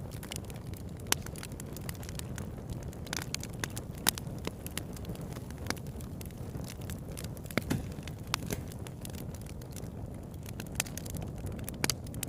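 Campfire burning, with irregular crackles and sharp pops of the wood over a steady low rumble.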